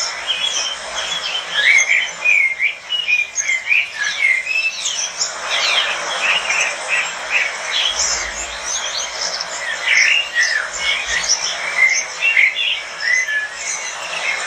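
A room full of caged lovebirds chattering, with many short, high chirps and squeaks overlapping continuously.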